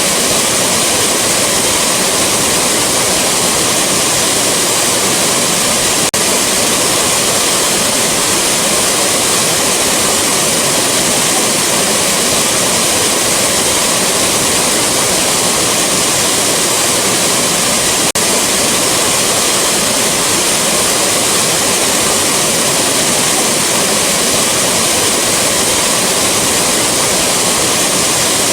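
Waterfall rushing: a loud, steady hiss of falling water. A faint click is heard twice, about twelve seconds apart, where the recording loops.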